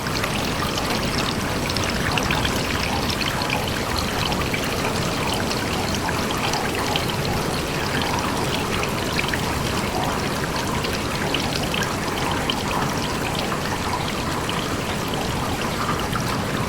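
Rainwater pouring and trickling steadily, with a dense patter of falling drops.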